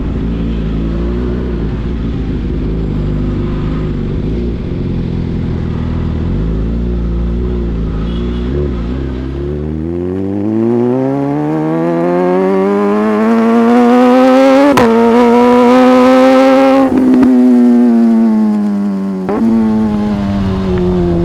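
Sport motorcycle engine running steadily at low revs, then accelerating from about halfway with its pitch climbing steeply. Near the peak there are sharp clicks and a brief break, and then the engine eases off with the pitch falling.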